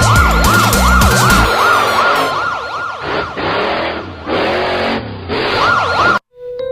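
Cartoon emergency-vehicle siren wailing in quick up-and-down sweeps, about two to three a second, over a noisy backing with a low beat at first. It cuts off suddenly near the end, and a soft electric-piano note starts.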